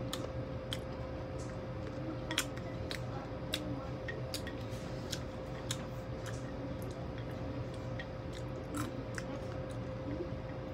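Close-up eating sounds: chewing and biting fried meat, with scattered short clicks, over a steady faint hum.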